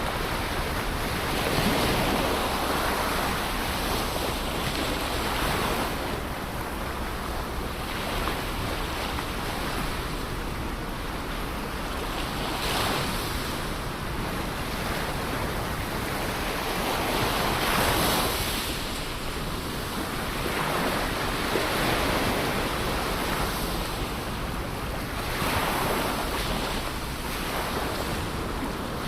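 Ocean surf breaking on a shore. Each wave comes as a rush of noise that swells and fades, one every four to six seconds.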